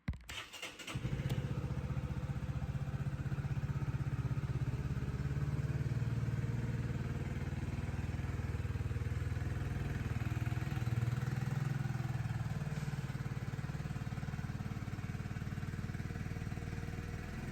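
Honda CB125R's single-cylinder engine starting: a few clicks of cranking, then it catches about a second in and idles steadily.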